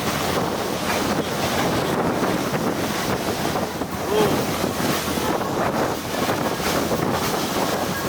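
Wind buffeting the microphone over the rush of water from a boat under way, a steady loud noise.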